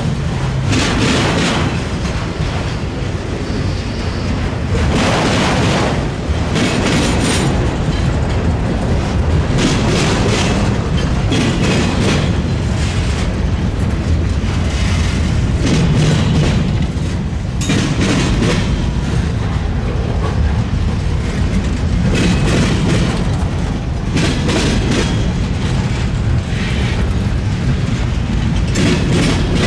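Freight train rolling across a railroad diamond crossing: a steady heavy rumble with a sharp bang every second or so as each wheel set hits the gaps in the crossing.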